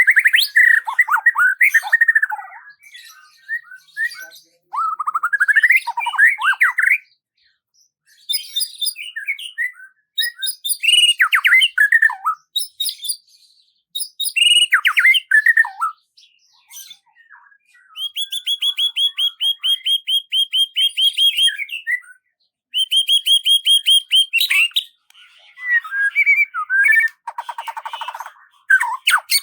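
A songbird singing varied phrases: quick down-slurred whistles and trills, then a fast run of repeated notes in the middle, with short pauses between phrases.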